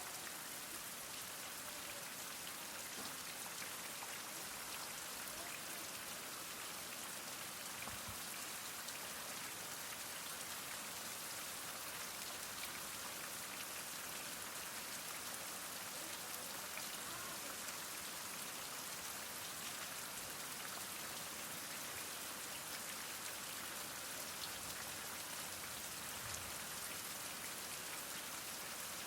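Heavy rain falling steadily: an even hiss dotted with countless small drop ticks, with no thunder.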